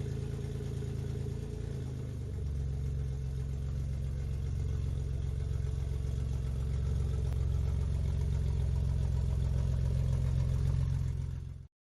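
A car engine running steadily, its note shifting and getting a little louder about two seconds in, then cutting off suddenly near the end.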